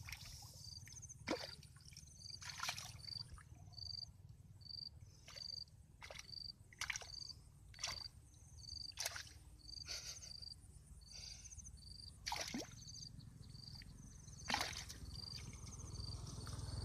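Water splashing in short, irregular splashes, over a high chirp that repeats steadily a little more than once a second.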